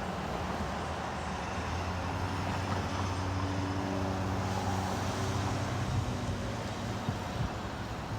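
Heavy diesel engine of a fire truck running close by, its hum swelling through the middle and easing off near the end.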